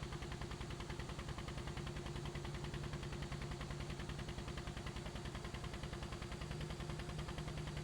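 Helicopter rotor running steadily: a rapid, even chopping beat with a steady low hum under it.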